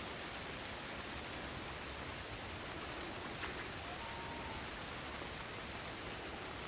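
Steady rain falling in a forest, an even hiss of drops with no breaks, under a constant high cricket trill. A brief faint single note sounds about two-thirds of the way in.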